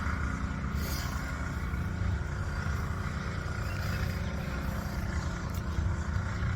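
Steady low outdoor rumble with no distinct events, the kind of background left by distant town traffic or wind on the microphone.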